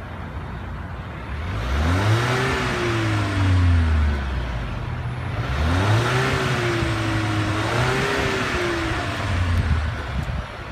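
2016 Volvo XC90 T6's 2-litre supercharged and turbocharged inline four-cylinder engine revved twice: the pitch climbs quickly and sinks back to idle about 2 s in, then again about 5.5 s in, held up longer the second time.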